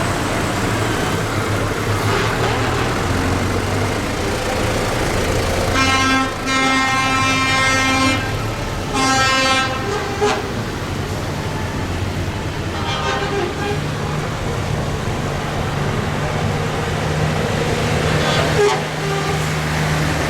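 Tractor engines running as a tractor convoy passes. A vehicle horn sounds two long blasts, about six and nine seconds in, then a fainter short blast a little later.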